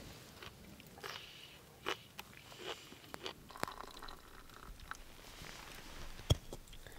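Crisp bites and chewing of grilled asparagus, a run of short crunches and clicks, then a single sharp knock about six seconds in.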